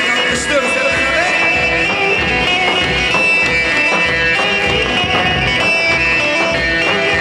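Live halay dance music led by an amplified bağlama (long-necked saz), with held melody notes over a steady beat.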